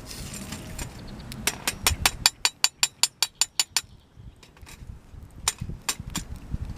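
A rapid run of light metallic clinks, about six a second for a couple of seconds, from camp cookware and utensils. A few more separate clinks follow near the end.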